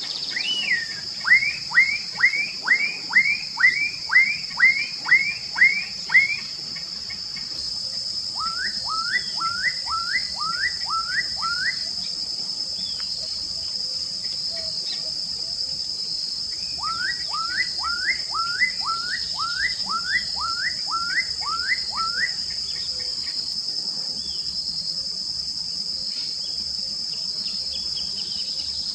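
Black-capped donacobius (japacanim) singing three runs of rising whistled notes, about two a second, the first run the loudest. A steady, shrill insect chorus drones throughout, stepping up in level a third of the way in.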